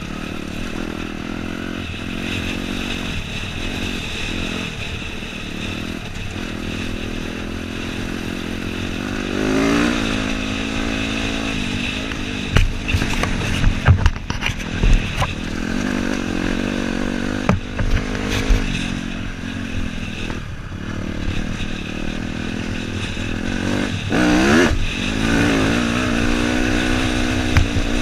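Dirt bike engine running under a rider on a trail, its revs rising and falling several times. A cluster of sharp knocks and clatter comes about halfway through, with a few more shortly after.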